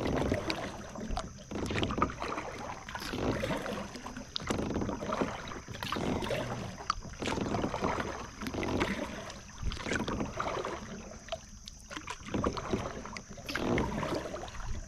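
Kayak paddle strokes: the blades dipping and pulling through the water in a steady rhythm, about one stroke every second and a half, with splashing and dripping. A faint steady high tone runs underneath.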